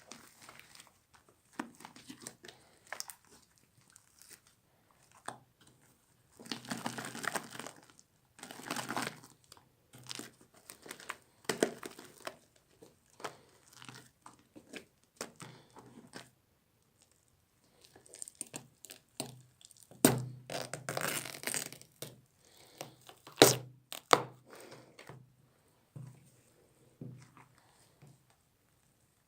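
Watermelon slime being worked by hand, giving off irregular runs of crackling and popping, with a couple of sharper, louder snaps about two thirds of the way through.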